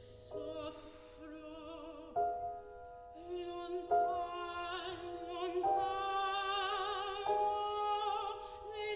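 Classical soprano singing long held notes with wide vibrato, accompanied by piano chords that change every second or two.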